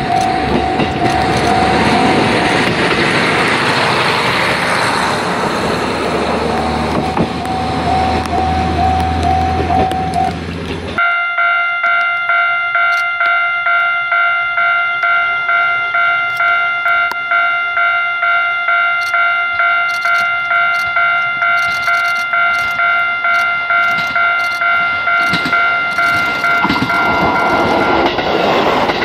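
KiHa 40 diesel railcar pulling away under engine power. About 11 seconds in, a railway level-crossing warning bell takes over, ringing steadily about twice a second. Near the end another KiHa 40 railcar approaches and runs past under the bell.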